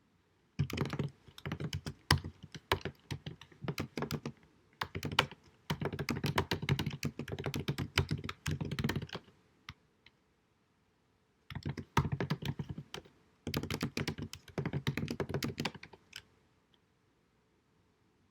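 Computer keyboard typing in fast bursts of key clicks, recorded at low quality. One run of about nine seconds, a pause of about two seconds, then a second run of about four seconds that stops a couple of seconds before the end.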